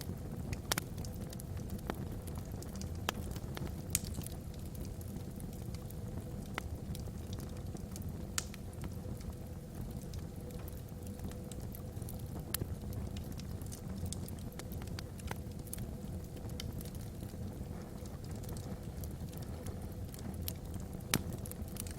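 Wood fire burning in a fireplace: a steady low rumble of flame with scattered sharp crackles and pops from the burning logs, a second or two apart.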